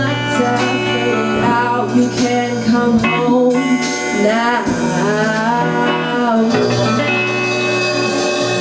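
A band playing the end of an original guitar-based rock song, with guitar and singing. About seven seconds in it settles onto a held chord.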